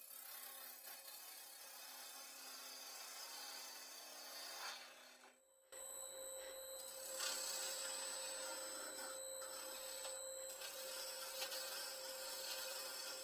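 Gouge cutting a spinning wooden bowl on a wood lathe: a continuous rough scraping hiss over a steady hum. The cut breaks off for a moment about five and a half seconds in, then resumes.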